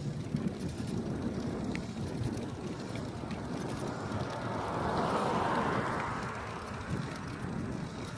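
Wind buffeting a phone microphone taped to the handlebars of a moving bicycle, over the low rumble and rattle of the bike rolling along the road. A rushing noise swells and fades in the middle.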